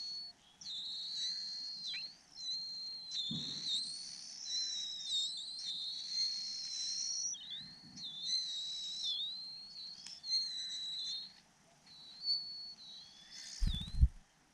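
Baby bird calling in a long series of high, thin, wavering whistle-like notes, with short breaks between them; near the end comes a brief low thump.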